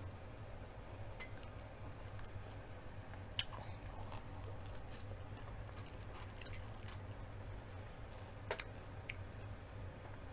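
A person chewing deep-fried chicken, with faint chewing throughout and a few sharp crunchy clicks, over a low steady hum.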